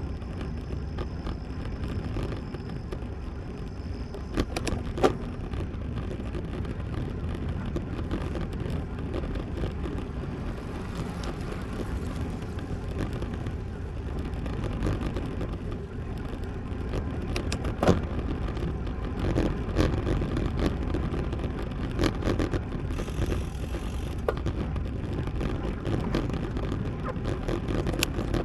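Steady wind rumble on the microphone and road noise from a road bike being ridden, with a few sharp clicks scattered through.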